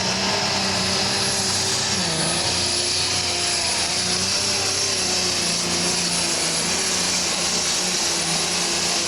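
John Deere diesel super stock pulling tractor running hard, with a high turbocharger whistle held steady over the engine's drone.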